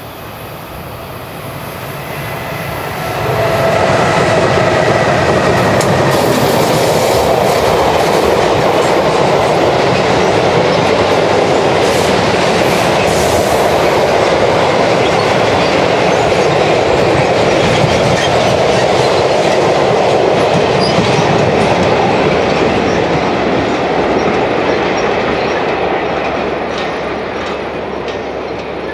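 Electric-hauled freight train of covered sliding-wall wagons passing close by. The locomotive arrives about three seconds in with a faint whine, then the wagon wheels rumble steadily over the rails with occasional clicks, easing off over the last few seconds as the train draws away.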